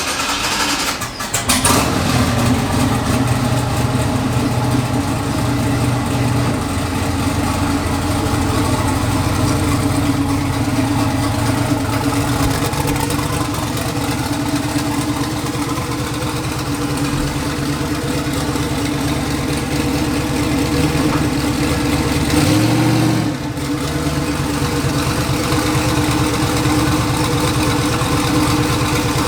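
Turbocharged LS V8 engine of a Chevy S10 drag truck starting and settling into a steady idle, with one brief rev about three-quarters of the way through.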